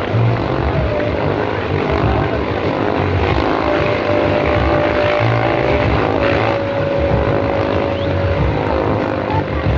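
Several motorcycle engines running hard together at high, fairly steady revs as the bikes circle inside a steel globe of death, making a dense, continuous drone with held engine notes.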